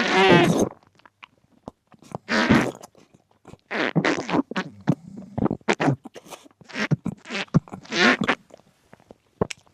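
Close-miked chewing of cheese: a series of short, wet, squelching mouth and smacking sounds, one burst every second or so.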